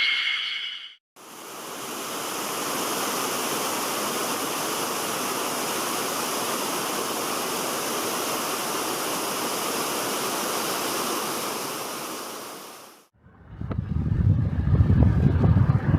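Steady rush of flowing water that fades in after a moment of silence and fades out about thirteen seconds in. Then wind buffets the microphone with a low, gusting rumble.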